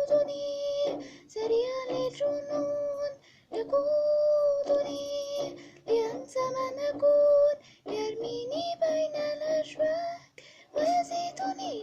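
A girl's voice singing long held notes in several phrases, each rising into a sustained pitch, with short breaks between phrases.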